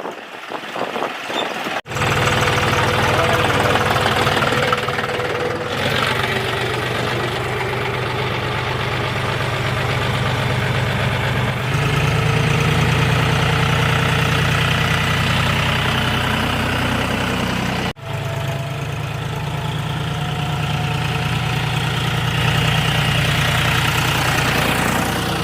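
John Deere 5045D tractor's three-cylinder diesel engine running steadily, with a deep, even drone. The sound breaks off abruptly twice, about two seconds in and again near the end, where the recording is cut.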